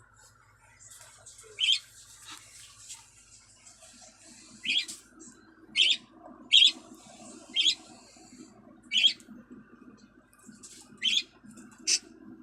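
Pet lovebirds giving about eight short, sharp, high-pitched chirps at irregular intervals.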